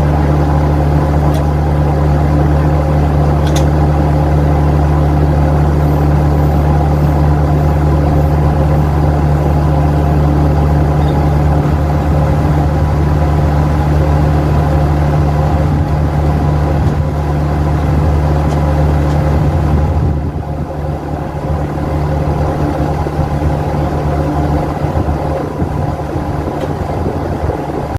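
A vehicle engine running steadily at constant speed, a deep, even hum that eases slightly in level about twenty seconds in.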